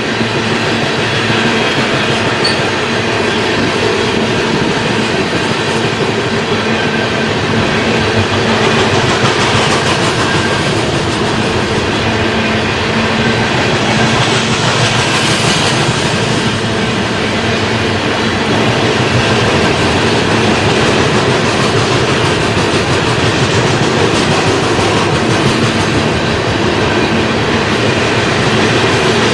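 Loaded coal train's cars rolling past fast, a steady loud rumble of steel wheels on the rails.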